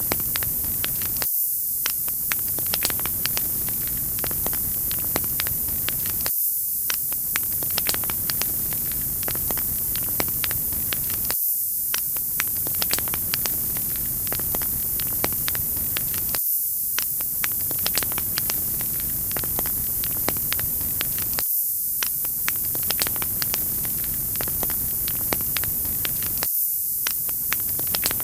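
Wood fire crackling in a fireplace: a steady hiss with many small sharp pops and snaps, on a short loop that repeats about every five seconds.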